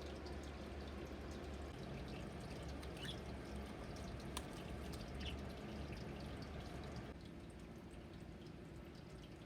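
Steady low room hum and hiss with a few faint, short budgie chirps about three and five seconds in and a single sharp click a little after four seconds; the background noise drops slightly near the end.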